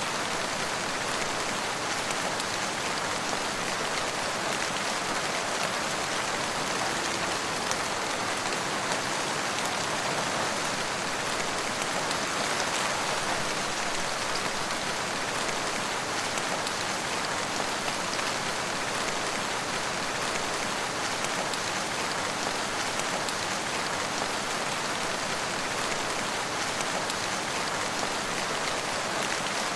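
Steady rain falling on surfaces, an even hiss with fine patter of drops that doesn't change.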